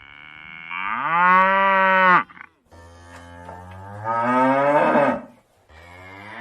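Cow mooing: three long moos one after another, each rising in pitch and then held, the third starting near the end.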